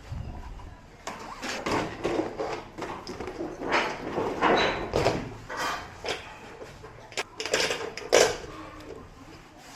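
Irregular knocks, clicks and rustling of objects being handled.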